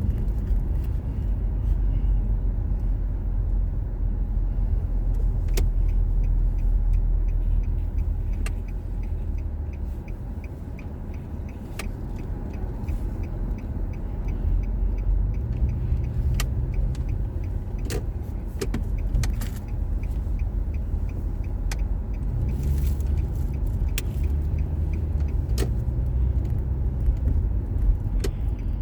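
A car being driven, heard from inside the cabin: a steady low rumble of engine and road noise, with a faint regular ticking and a few sharp clicks.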